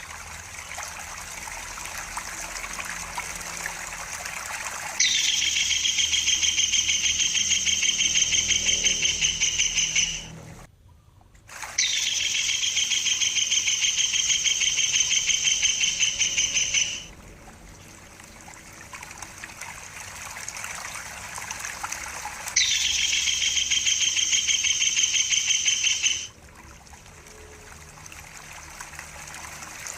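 Tengkek buto (kingfisher) calling in three long, fast, shrill trills of several seconds each, over a steady trickle of running water.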